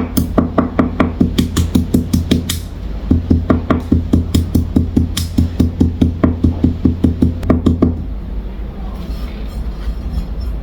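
Allspice seeds being pounded for a rough crush: rapid, even knocks about four to five a second, with a short pause about two and a half seconds in, stopping about eight seconds in.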